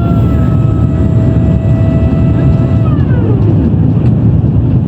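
Jet airliner cabin noise on approach: a loud, steady rumble with an engine whine that glides down in pitch and fades about three seconds in.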